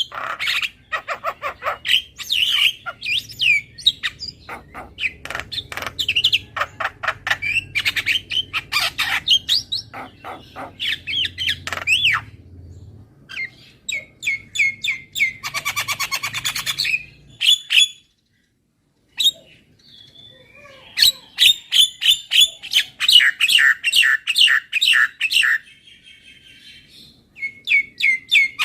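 Javan myna (jalak kebo) calling: rapid runs of short, harsh chattering and whistled notes, broken by a pause of about a second roughly two-thirds of the way through.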